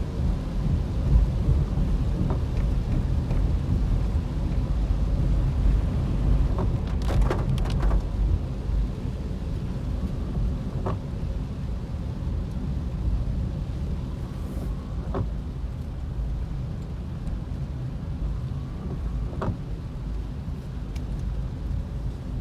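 Steady low rumble of a car driving in heavy rain, with rain hiss over it, heard from inside the cabin. Faint short ticks come about every four seconds.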